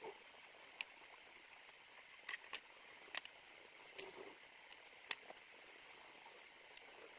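Faint, irregular light clicks and taps from small 3D-printed plastic parts being handled and fitted together, over a steady low hiss.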